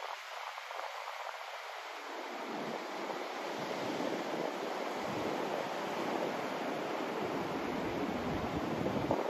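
Continuous white-noise hiss. It deepens and swells slightly as lower rumble fills in from about two seconds in, then the rumble drops away abruptly just before the end.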